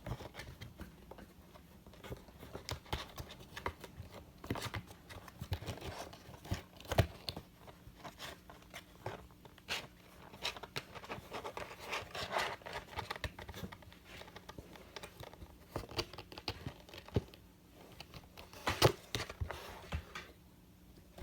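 Irregular crinkling rustles and small clicks, with a faint steady hum underneath.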